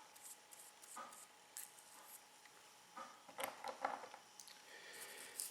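Faint rustles and small clicks of fingers working a thin tobacco wrapper leaf onto a cigar as it is glued to the binder. The sounds come singly at first, with a denser patch of crinkling a little past the middle.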